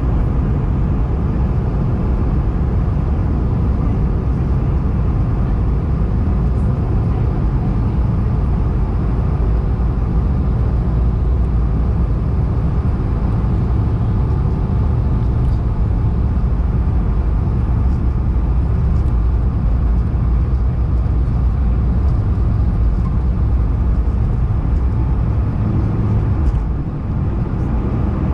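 Airbus A220-100 cabin noise: a loud, steady low rumble of the Pratt & Whitney PW1500G turbofans and the airflow, heard from a passenger seat. Near the end it dips briefly with a faint click.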